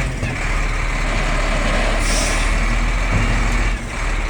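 Wheel loader's diesel engine running hard while lifting and shifting a heavy truck. There is a short hiss about two seconds in.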